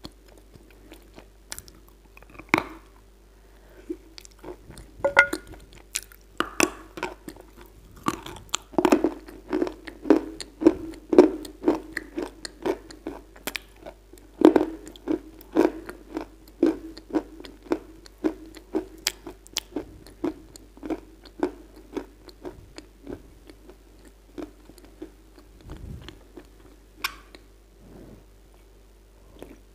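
Close-miked chewing of Kyrgyz edible clay: many sharp, irregular crunches and crackles as lumps are bitten and ground, the clay turning creamy as it is chewed. Near the end, a gulp of a drink.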